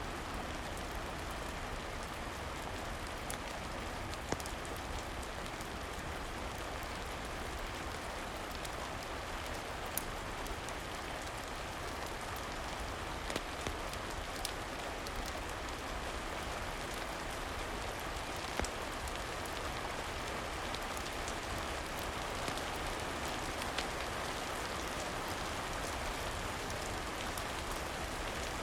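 Steady rain falling, with a handful of sharp pops scattered through, like the crackle of a wood fire.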